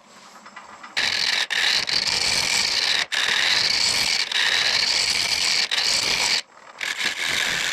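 Turning tool cutting into a spinning mesquite blank on a wood lathe: a loud, steady scraping hiss that starts about a second in, dips briefly a few times, stops for about half a second near the end, then starts again.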